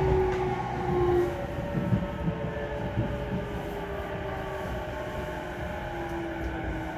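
Running sound of a JR East E233-1000 series electric train heard inside the motor car: the Mitsubishi IGBT VVVF inverter and traction motors whine in several steady tones that drift slowly in pitch, over a low rumble of wheels on rail, with a few short knocks near the middle.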